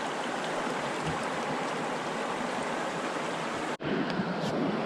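Steady rush of a fast-running forest brook, with a sudden brief dropout about four seconds in.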